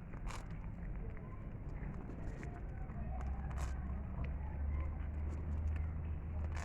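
Cat chewing food, with scattered sharp crunching clicks. From about halfway in, a low rumble starts and becomes the loudest sound.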